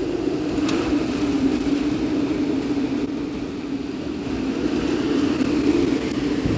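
A vehicle running steadily: a constant low hum under an even hiss, with no change in pitch.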